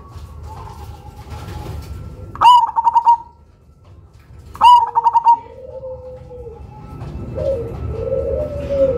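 Cemani (all-black) perkutut, a zebra dove, singing: two loud song phrases about two seconds apart, each a quick rising note followed by four rapid short notes. Softer, lower cooing follows in the second half.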